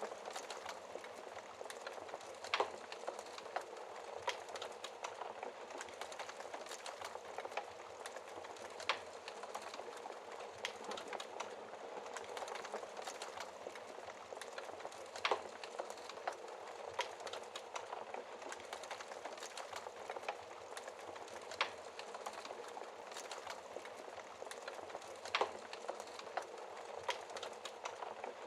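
Wood fire crackling in a fireplace: a steady hiss of small crackles with a louder, sharper pop every few seconds.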